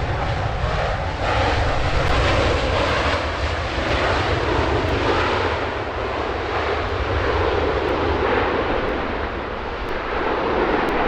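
Loud engine noise of a jet airliner passing close by: a deep rumble with a rough noise over it that swells and eases several times.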